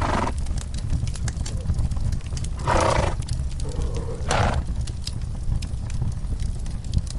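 Fireplace crackling with frequent small pops over a steady low rumble, while a horse in its stall gives three short breathy snorts: one at the start, one about three seconds in, and one about a second and a half later.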